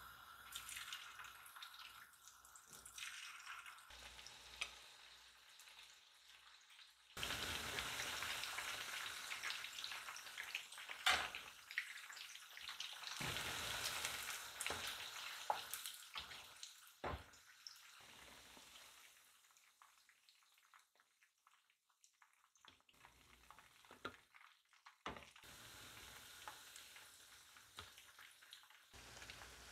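Marinated chicken pieces deep-frying in hot oil in a frying pan, sizzling and bubbling. A loud sizzle starts suddenly about a quarter of the way in, with a few sharp knocks, then dies down to a much quieter level after the middle.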